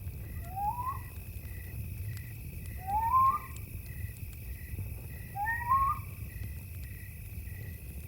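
Night jungle ambience: a steady high cricket trill and a chirp pulsing about twice a second, with three short rising whistled animal calls about two and a half seconds apart. Faint scattered crackles of a campfire and a low rumble sit underneath.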